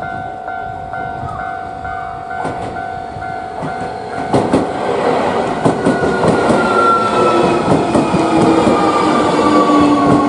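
Electric commuter train approaching: from about four seconds in it grows louder, with wheels clattering over the rails and a motor whine that falls steadily in pitch as the train slows.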